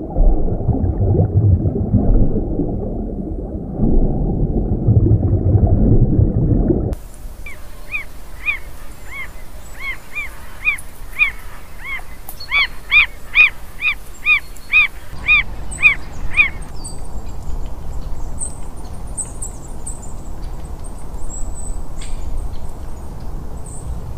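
Low, dense rushing water sound for about the first seven seconds, cutting off suddenly. A small bird then calls a run of short repeated arched notes, about two a second, for some nine seconds, followed by faint high chirps.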